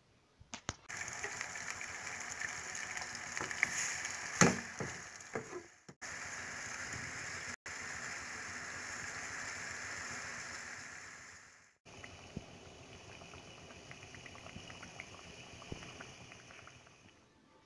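Marinated chicken leg pieces frying in hot oil in a metal kadai: a steady sizzle and crackle, with a few sharp knocks around four to five seconds in. The sizzle cuts off abruptly a few times.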